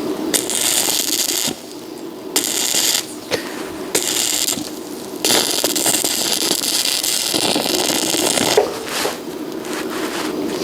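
Electric arc welding crackling in short runs that start and stop abruptly, as the arc is struck and broken again and again. The runs last about a second each, with one longer run of about three seconds in the middle.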